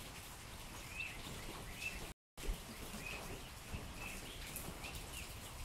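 Steady patter of rain on a covered arena's roof, with a bird giving short chirps several times. The sound drops out completely for a moment about two seconds in.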